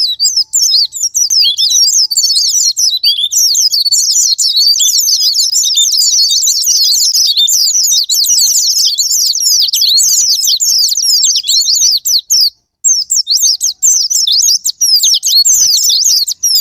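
White-eyes (pleci) singing a fast, dense, high twittering song, nearly unbroken apart from a short pause about twelve seconds in. This is a lure recording of white-eye song, of the kind played to trigger captive white-eyes to sing.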